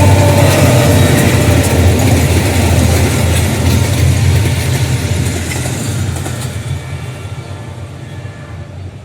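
A General Electric diesel-electric locomotive and its train passing close by, with heavy engine rumble and wheel noise that fade steadily over the last few seconds as the train moves away. The tail of the train horn dies out in the first half-second.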